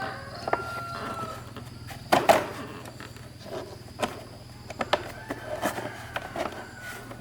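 Chickens calling in drawn-out calls, once near the start and again in the second half, with a single sharp knock about two seconds in and a few light clicks between.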